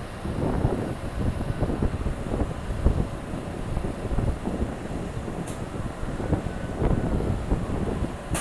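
New York City subway train (F train) running through the station: a continuous rumble with irregular knocks and clatter from the wheels on the track, and one brief high squeak about five and a half seconds in.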